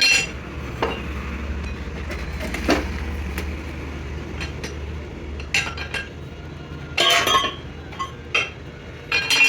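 Sharp metallic clinks and scrapes of steel tools against a heavy steel axle, coming irregularly with a dense cluster about seven seconds in, over the steady low hum of the lathe turning the axle.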